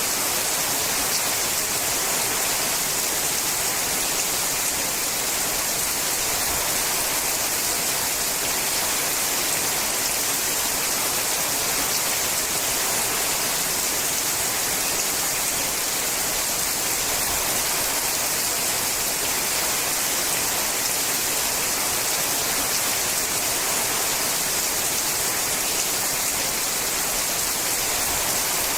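Steady rain falling on a sheet-metal roof: an even, unbroken hiss.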